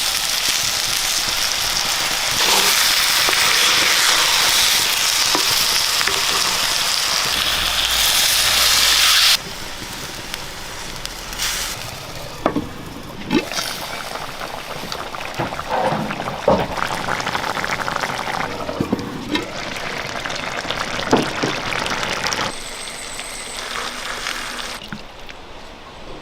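Food sizzling as it fries in a hot pan, loud and steady for the first nine seconds or so. After that it is quieter, with a utensil knocking and scraping against the pan.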